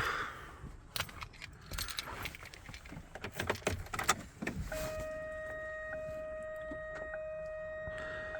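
Keys jangling and assorted clicks and knocks, then about five seconds in a steady electronic warning tone starts and holds without a break, typical of a pickup's dashboard chime with the key turned on.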